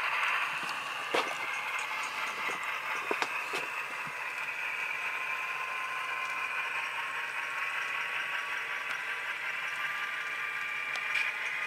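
Tsunami sound decoder in a model GE C44-9W diesel locomotive playing its engine sound through a small speaker: a steady, thin drone with no bass and a slow drift in pitch. A few sharp clicks come in the first few seconds.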